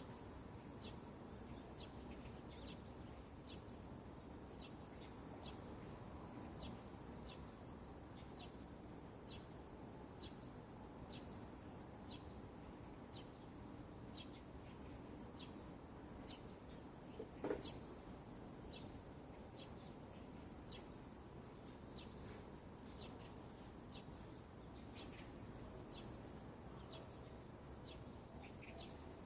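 Faint outdoor morning birdsong: a bird repeats a short, high call about twice a second over a soft steady background hiss. About two-thirds of the way through comes one louder short sound.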